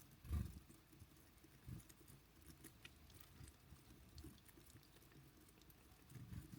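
Faint ticks and a few soft thumps from small birds hopping and pecking at a feeder, the loudest thump just after the start.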